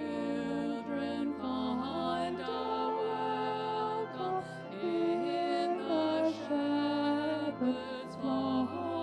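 A slow hymn sung over sustained accompaniment, with long held notes and a deep bass note that changes every few seconds.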